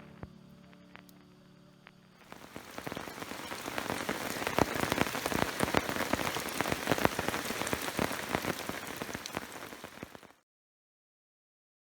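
Rain falling, a dense spatter of individual drops over a steady hiss, fading in about two seconds in and cutting off abruptly near the end.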